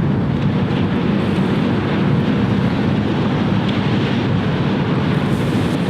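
Wind buffeting the microphone: a steady, loud low rumble with no distinct engine tone.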